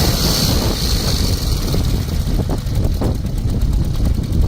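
Ural motorcycle's flat-twin engine running with a steady, loud low rumble.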